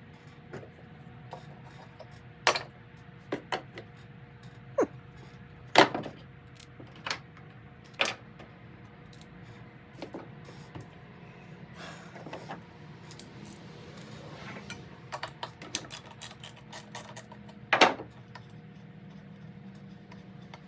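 Scattered sharp clicks and knocks of hand tools and parts being handled while a Stihl BR340 leaf blower is taken apart, some louder than others, over a steady low hum.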